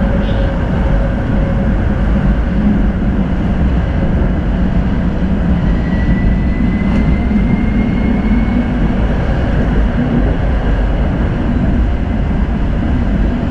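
Tram running along the line: a steady rumble of the wheels on the rails and running gear, with a faint high whine rising slightly in pitch around the middle.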